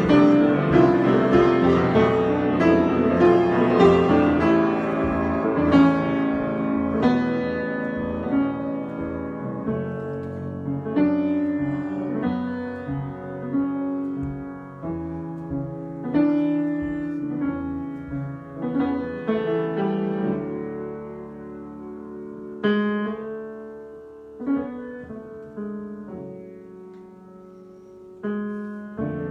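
Solo piano improvisation: dense, full chords at first, thinning after about six seconds into sparser, softer chords and single notes that ring and die away.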